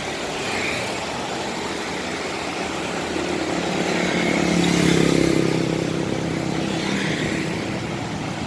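A bus engine running as a bus moves past close by. The engine hum builds to its loudest about five seconds in, then eases off.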